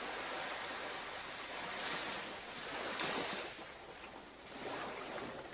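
Ocean surf washing onto a beach, a steady rush that swells a couple of times in the middle and then eases off.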